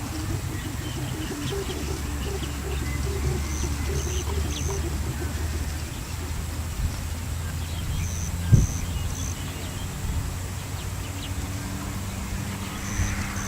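A bird calling in sets of three short, high, evenly spaced notes, repeated every four to five seconds over a low steady rumble, with a single sharp thump near the middle.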